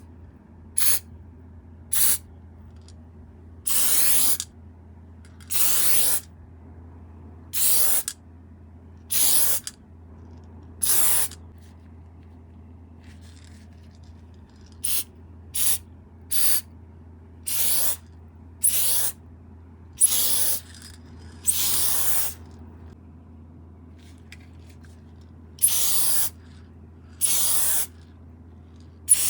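Aerosol spray paint can with a wide-spraying fat cap, sprayed in about eighteen separate hissing bursts. Some bursts are short taps and others last about a second, with a couple of longer pauses between groups. A steady low hum runs underneath.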